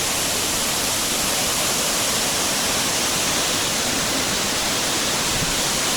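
Waterfall pouring down close by: a steady, unbroken rush of falling water and spray.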